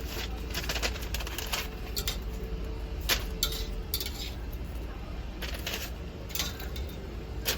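Dishes and cutlery clinking, a dozen or so sharp clinks scattered over a steady murmur of restaurant room noise; the sound cuts off suddenly at the end.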